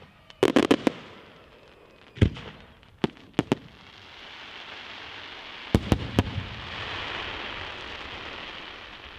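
Fireworks display: loud sharp bangs of aerial shells, several in quick succession just after the start, then single reports and a group of bangs about six seconds in. Beneath them a dense crackling hiss swells and then fades.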